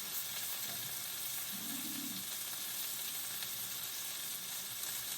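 Food sizzling steadily in a frying pan on the stove, a constant frying hiss.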